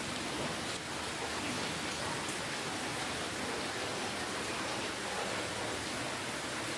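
Steady rainfall: a constant, even hiss of rain with no distinct drops or other events standing out.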